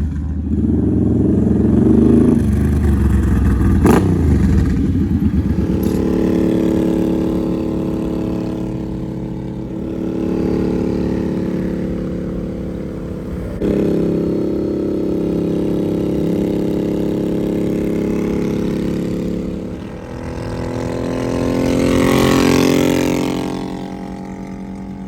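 Suzuki Boulevard C50's V-twin through a full Cobra slash-cut exhaust, running loud while the bike is ridden, its pitch holding fairly steady with changes of throttle. A sharp click comes about four seconds in, and the sound swells louder near the end.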